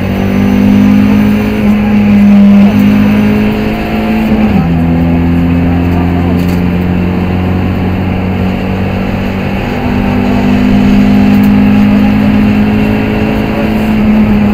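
BMW E36 318is four-cylinder engine heard loud from inside the rally car's cabin, held at high revs under load. The revs drop about four and a half seconds in, hold lower for a while, climb again about ten seconds in, and fall once more near the end.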